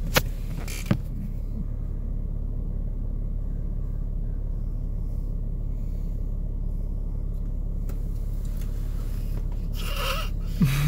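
A car engine idling with a steady low rumble, and two sharp clicks about a second apart near the start.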